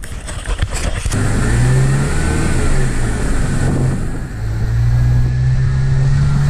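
Vehicle engine pulling away and accelerating, its pitch rising, easing off about four seconds in, then climbing again; a few clicks and rustles just before it starts.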